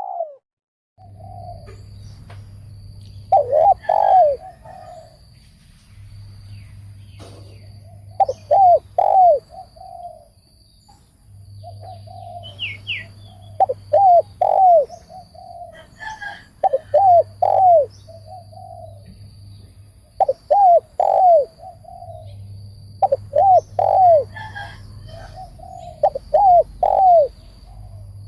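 Spotted dove cooing: repeated phrases of two or three arched coo notes with a softer trailing note, coming about every three seconds.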